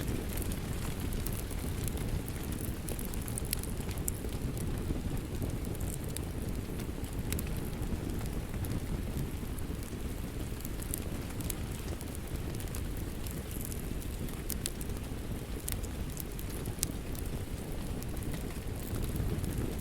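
Wood fire crackling in a fireplace: a steady low rumble of the flames with scattered sharp pops and snaps.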